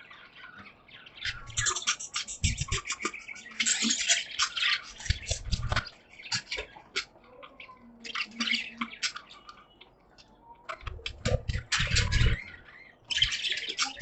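A flock of pet budgerigars chirping and chattering, rapid short chirps in bursts with brief pauses. A few low thumps come in between the chirps.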